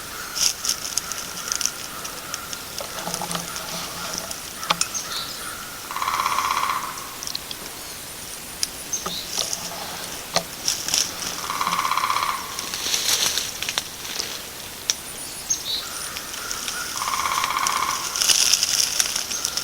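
Wild birds calling in woodland: a short call repeats about every five or six seconds over scattered high chirps.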